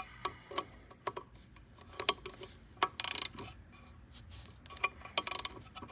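Irregular metallic clicks and clinks of a wrench on the connecting rod cap bolts as they are drawn down evenly on an EZGO golf cart engine, with a short rattling run about three seconds in and another near the end.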